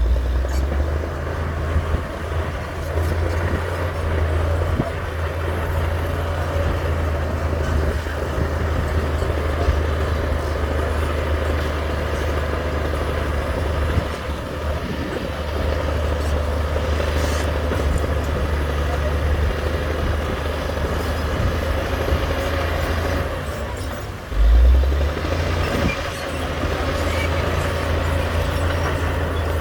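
Heavy diesel engine of earthmoving machinery running steadily with a deep drone, with a brief louder low surge about three-quarters of the way through.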